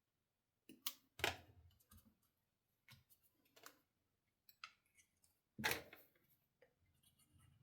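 Card-making supplies handled on a desk: a scatter of clicks, taps and light paper rustles, with two louder knocks about a second in and just before six seconds.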